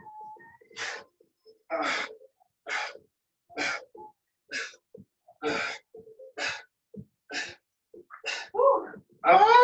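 Sharp, forceful breaths from exercise effort, about one a second, in time with repeated V-sit single-leg tucks. Near the end there is a louder voiced sound of effort.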